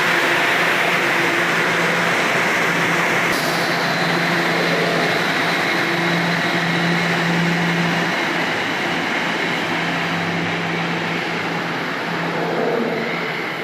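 Toronto Rocket subway train running through the station: a steady rumble and rail noise with a low hum, slowly fading. The highest hiss drops away about three seconds in.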